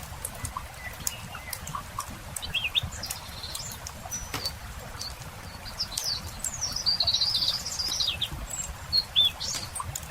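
A songbird singing: short chirps a few seconds in, then a longer warbling phrase and a few sharp notes near the end. Campfire crackling and popping runs beneath it.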